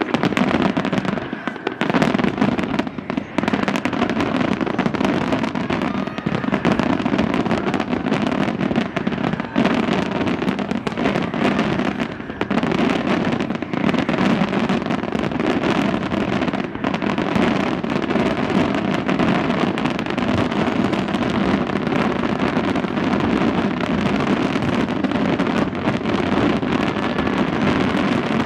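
Fireworks display: a dense, continuous barrage of bangs and crackles with no pause.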